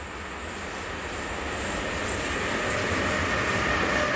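Electric-hauled container freight train approaching and passing, its wheel and rail noise growing louder. From about halfway through, the wheels squeal steadily on the curved track.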